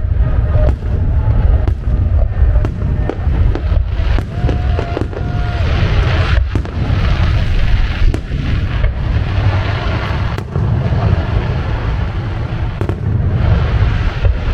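Fireworks display going off in a dense barrage: rapid, overlapping deep booms and crackling bursts with hardly a gap between them.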